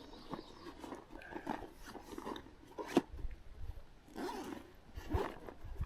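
Scattered close-up rustling, clicks and low bumps of handling, with one sharp click about three seconds in.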